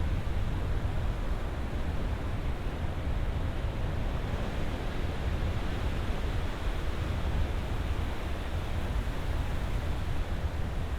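Ocean surf: a steady, even wash of breaking waves with a heavy low rumble and no separate crashes standing out.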